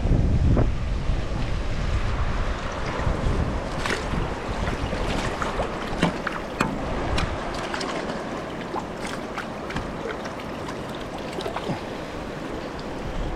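Steady rush of river water, with wind buffeting the microphone in the first second or two and scattered light clicks and taps through the middle.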